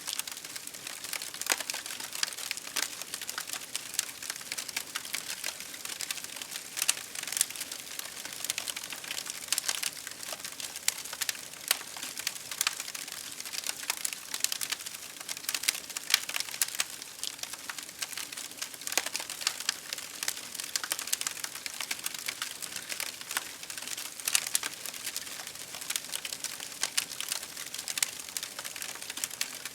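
Wood campfire crackling, with many irregular sharp snaps and pops over a steady hiss of rain.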